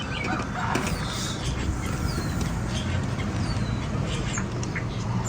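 A few short, thin descending chirps from birds, spaced about a second apart, over a steady low background rumble.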